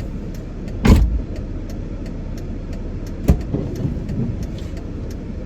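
Dodge Caravan minivan running with a steady low rumble, broken by a heavy thump about a second in and a sharper knock a couple of seconds later.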